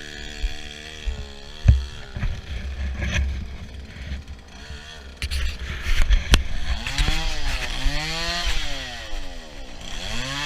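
Mini bike's small engine running, steady at first, then its note drops away about two seconds in. From about seven seconds on it is revved up and down several times in repeated swells, with a few sharp knocks in between.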